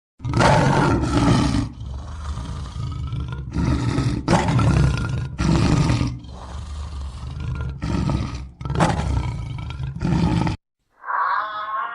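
A large animal roaring in a long series of loud, deep roars with quieter rumbling between them, stopping abruptly near the end.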